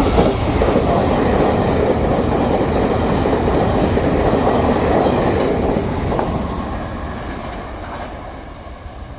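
Train passing through the station at speed without stopping: a loud rush of wheel and rail noise that builds at once, holds for about six seconds, then fades away as the train goes.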